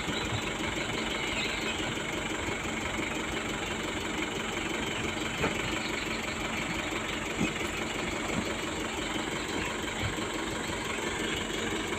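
Heavy vehicle engine running steadily at low revs, with a couple of faint knocks partway through.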